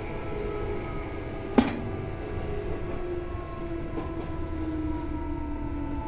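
Tobu 9000 series electric train running, heard from inside the car: a low running rumble under several whining tones that slowly fall in pitch. There is one sharp click about a second and a half in.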